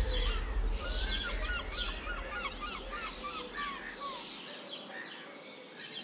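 Songbirds singing: many short, quick chirps, with a run of rapid warbling notes from about one to four seconds in.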